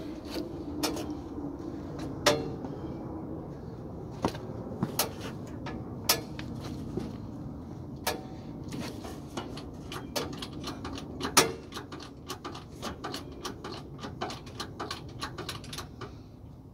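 Hydraulic jack being worked under a loaded boat trailer: sharp metallic clicks and clinks of the jack and its handle, scattered at first and then coming quickly, several a second, in the second half, over a steady low background noise.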